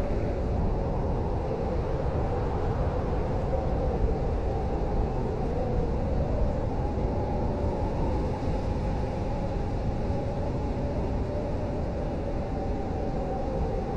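Blizzard wind blowing steadily: a deep, even rumble with a faint wavering whistle that rises and falls slightly in pitch.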